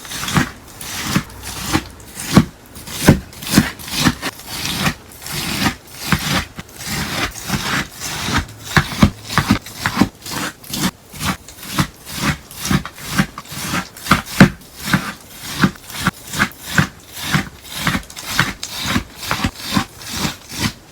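Crunchy melamine sponge slime being worked, giving crisp rasping crunches in a steady rhythm of about two a second.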